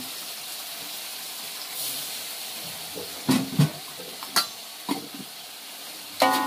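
Food frying in hot oil with a steady sizzle, while a utensil knocks against the pan several times; near the end a louder clank rings on briefly.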